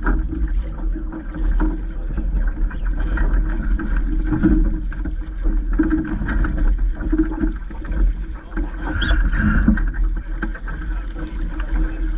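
Wind rumbling on the microphone over water splashing and knocking against a small sailing dinghy, with scattered short knocks and a brief higher sound about nine seconds in.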